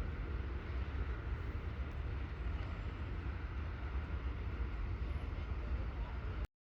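Freight train running by with a steady low rumble, cutting off abruptly near the end.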